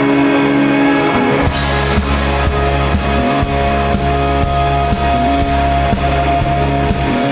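Live rock band playing an instrumental passage. Sustained electric guitar notes ring alone at first, then about a second and a half in the bass and drums come in with a steady beat.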